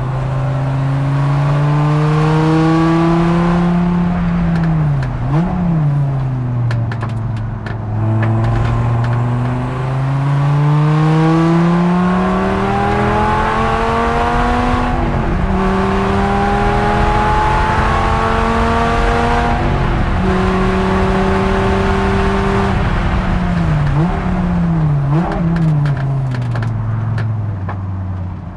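Dodge Viper ACR-X's V10 engine at racing speed, heard from inside the cockpit. The revs climb steadily with small drops at the upshifts. They fall away when the driver lifts off, with brief sharp rev spikes on the way down about five seconds in and twice near the end.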